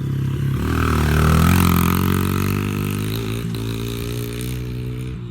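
Dirt bike engine revving: its pitch climbs about a second in, then holds high and eases off slightly.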